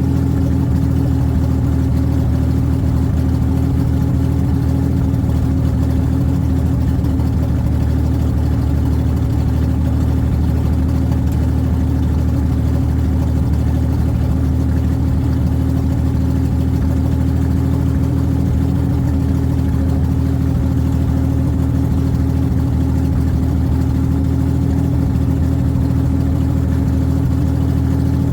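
2001 Oldsmobile Bravada's 4.3L V6 engine running at a steady speed with no exhaust fitted, drained of oil and coolant. A loud, even drone that holds without revving or faltering.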